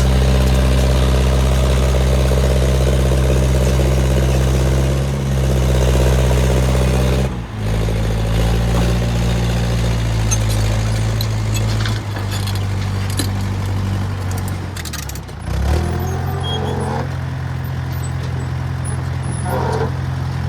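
A large engine runs steadily. Its speed drops and changes pitch about seven seconds in, shifts again around twelve and fifteen seconds, and comes with some light metallic clatter.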